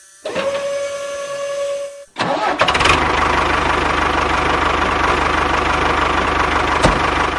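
Tractor engine starting: a steady whine for about two seconds, then the engine catches suddenly and runs on steadily with a low, even throb.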